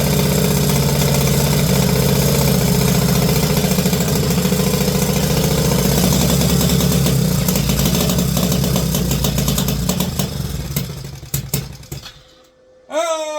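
Small single-cylinder engine running steadily, then sputtering for a couple of seconds and stalling, which the owner suspects is a carburettor issue. Just after it dies, a cat gives one meow that falls in pitch.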